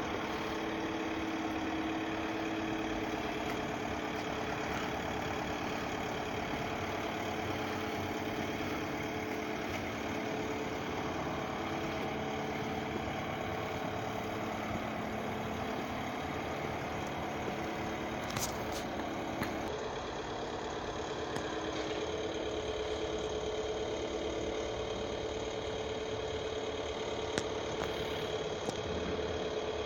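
Christ C160 Vitesse car wash machine running, a steady mechanical hum with a constant tone. The sound shifts about twenty seconds in, and a few sharp clicks come in the second half.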